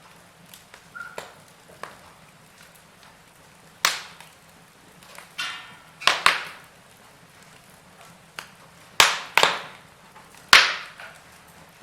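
Wood fire crackling in a fireplace: sharp, irregular pops and snaps, a few of them loud, over a faint steady hiss, with a short sizzling hiss just before the middle.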